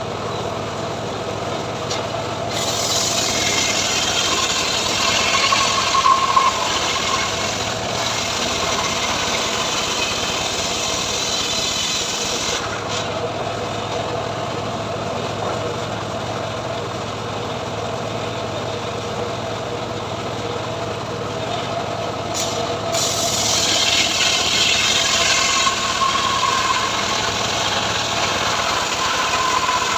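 Homemade engine-driven sawmill running steadily while its blade saws mahogany wood, with a louder, higher rasp of the cut from about 2 s to 12 s in and again from about 23 s to 28 s.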